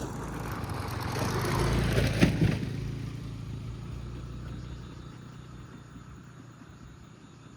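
A motor vehicle's engine passing by: it grows louder to a peak about two seconds in, with a few sharp knocks, then fades away.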